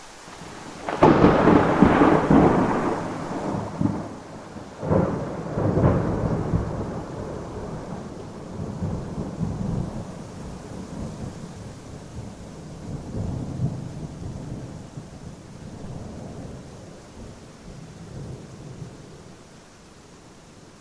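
Thunder over steady rain: a sudden loud clap about a second in, two more loud peaks around five and six seconds, then a long rumble that slowly dies away.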